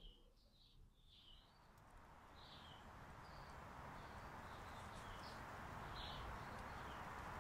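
Small birds chirping, short calls repeating every second or so, over a faint steady hiss of outdoor ambience that fades in and grows slowly louder.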